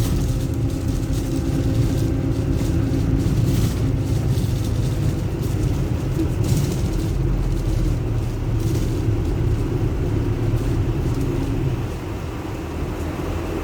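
Steady low rumble of a moving vehicle, with a faint hum in it.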